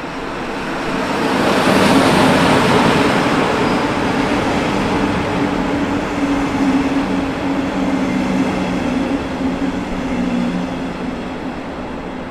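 A train running through the station, its rumble swelling to loudest about two seconds in and then slowly easing, with a steady low hum beneath it.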